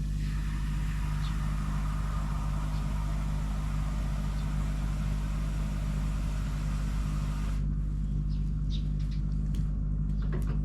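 A machine's motor running with a steady low hum and a hiss over it. The hiss stops suddenly about three-quarters of the way through while the motor hum keeps going.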